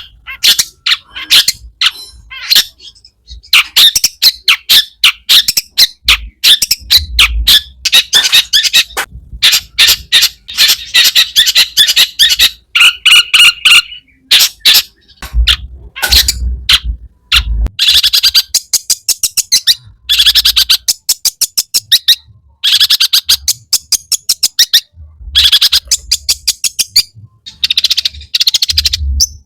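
Long-tailed shrike (cendet) singing loudly in fast chattering runs of high notes broken by short pauses, its song filled with mimicked calls of other birds.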